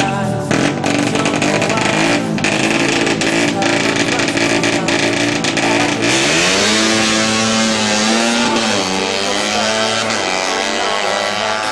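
Modified racing motorcycle engine running: its pitch climbs about six seconds in, holds, then drops back near nine seconds, with background music underneath.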